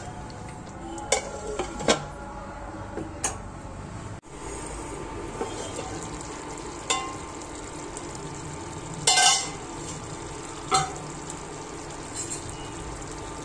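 Chicken salan masala sizzling as it fries in a pot (the bhuna stage, before water is added), with a few sharp clinks of metal against the pot and a louder scrape about nine seconds in.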